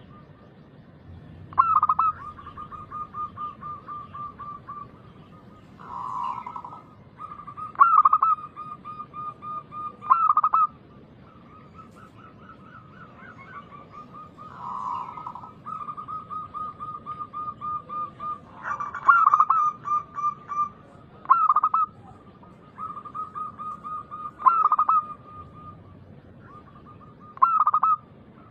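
Zebra dove (perkutut) cooing, phrase after phrase: quick runs of pulsed coos at one pitch, broken every few seconds by louder accented notes.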